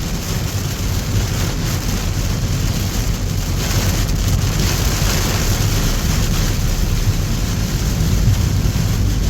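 Car driving on a wet highway in heavy rain: steady tyre and road noise with the hiss of rain and spray, under a low rumble.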